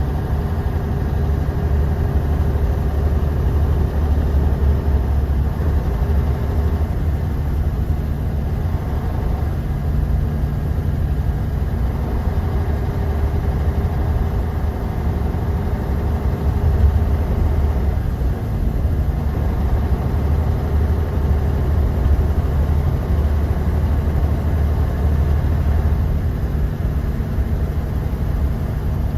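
Bus engine and road noise heard from inside the passenger cabin: a steady, deep rumble, with faint engine tones that shift slightly now and then.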